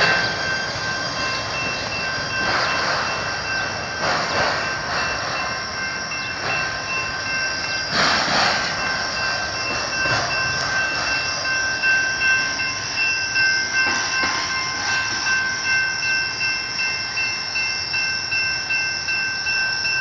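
Autorack freight train cars rolling away on the rails, wheels clacking over rail joints in a regular beat in the second half, with a steady high-pitched squeal held throughout.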